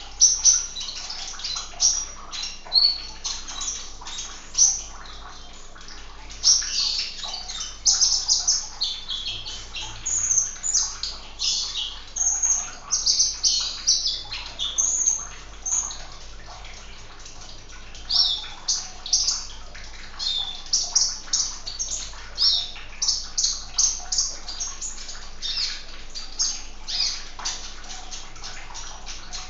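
Sunbird (kolibri) chirping and twittering in quick, high, irregular bursts throughout, with short pauses between runs of notes.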